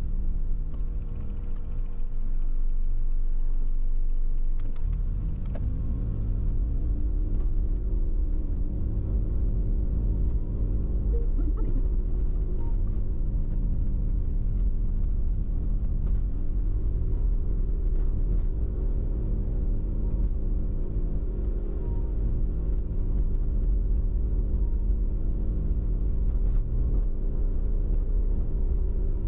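Steady low rumble of road and engine noise inside a Toyota HiAce van while it is driving, with a few faint clicks.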